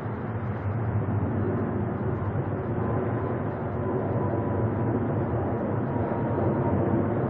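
Boeing 777's twin jet engines at takeoff thrust: a steady, deep rumble growing slightly louder.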